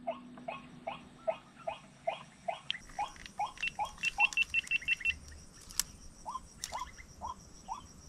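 A bird calling a steady series of short rising notes, about two and a half a second, with a brief pause near the middle. A second bird gives a quick run of high notes partway through, over a steady high insect drone and a couple of sharp clicks.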